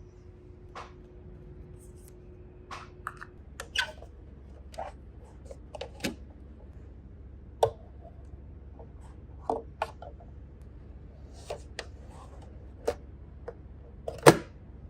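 Irregular small clicks and taps from plastic toy microwaves being handled, with a faint steady hum that stops a few seconds in. The loudest click comes near the end.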